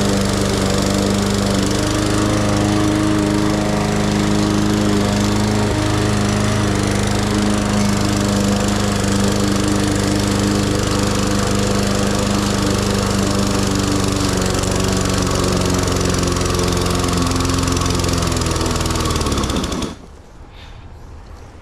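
Petrol lawn mower engine running steadily, then winding down and cutting out near the end.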